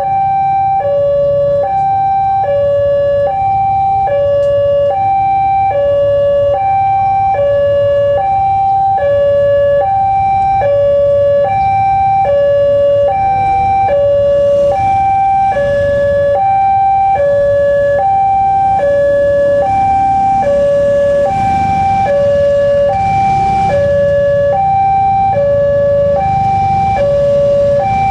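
Electronic level-crossing warning alarm sounding a steady two-tone high-low chime, about one pair a second, warning of an approaching train. A low rumble and hiss swell under it in the second half.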